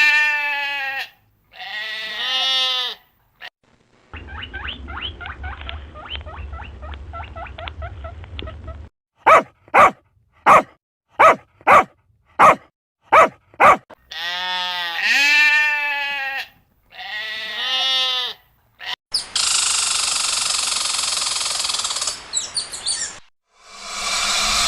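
A series of different animal calls: long wavering calls, then a rapid pulsing call over a low hum, then a run of about nine short sharp calls roughly half a second apart, more long wavering calls, and a steady hiss near the end.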